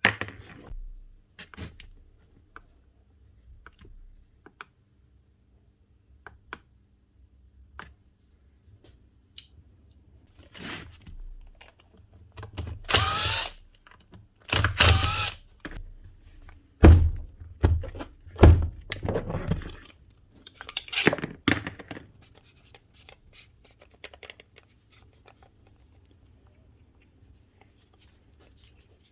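Hand work on an angle grinder's parts: scattered clicks and knocks, with several short, louder scraping or rubbing noises between about 12 and 22 seconds in.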